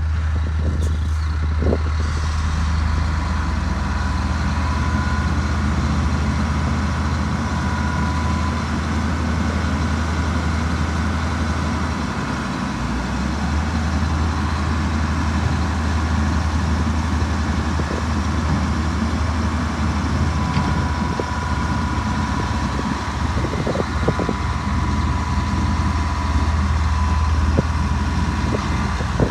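Heavy earthmoving machine's diesel engine running steadily, with a thin high whine above the low engine note. The engine note dips briefly about twelve seconds in.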